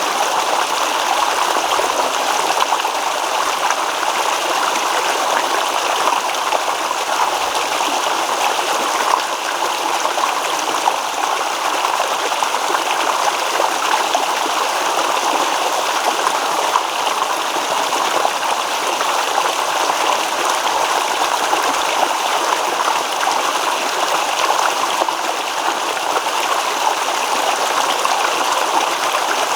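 Babbling stream: a steady, even rush of running water, mostly in the middle and upper range with little low rumble.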